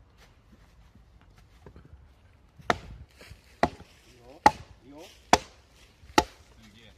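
Firewood being chopped: five sharp wooden strikes, about one a second, starting a couple of seconds in.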